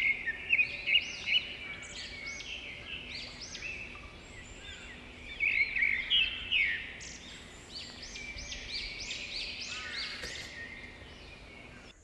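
Songbirds singing in a forest: a continuous run of short, high, arched chirps and trills, busiest near the start and again at about five to seven seconds.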